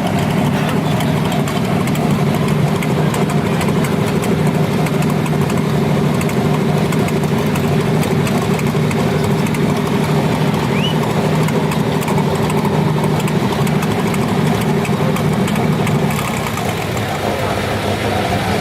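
A vehicle engine idling with a steady hum, which falls away about sixteen seconds in.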